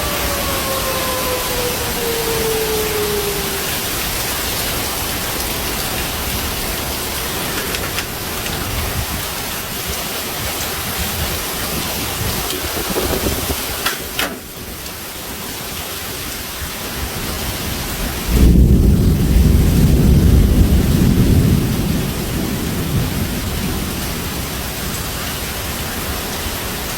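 Heavy rain falling steadily during a summer thunderstorm, with a loud low thunder rumble that starts suddenly about eighteen seconds in and fades over a few seconds. A falling tone passes in the first few seconds.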